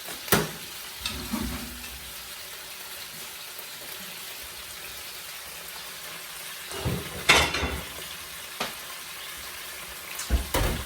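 Chicken pieces frying in a pan, sizzling steadily, while a utensil stirs and knocks against the pan a few times. The loudest clatter comes about seven seconds in.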